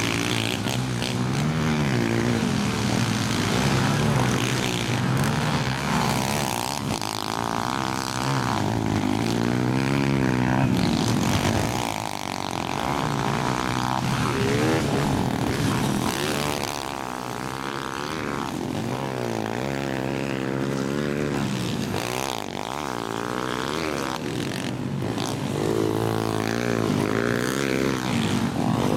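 Several pit bike engines racing around a dirt track, overlapping and revving up and down every few seconds as riders accelerate and back off.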